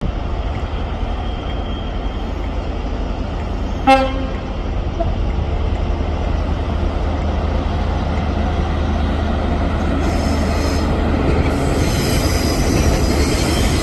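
InterCity 125 (HST) diesel power cars running with a steady low rumble, with one short horn toot about four seconds in. The engine and train noise grows louder near the end.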